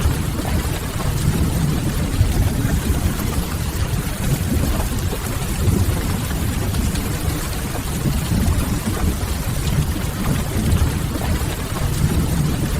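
Steady rain ambience with a deep low rumble under an even hiss, from a mixed rain-and-fireplace sleep soundscape.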